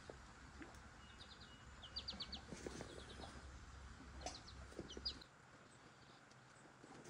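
Faint bird calls: short runs of three or four quick high chirps, repeated several times. Under them is a low steady rumble that drops away about five seconds in.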